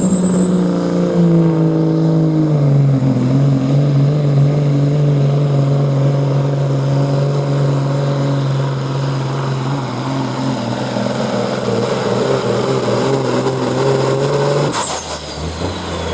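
Pro stock semi truck's diesel engine at full throttle pulling the sled, with a high turbo whistle over it; the engine pitch steps down about two seconds in, then holds steady. About fifteen seconds in the throttle cuts off suddenly and the whistle winds down.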